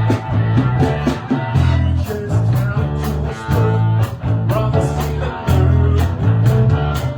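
Live band playing rock/blues music with guitar, a heavy bass line and a steady beat.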